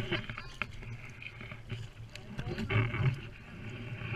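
Indistinct, muffled voices rising and falling, loudest about three seconds in, with a few short knocks in the first second.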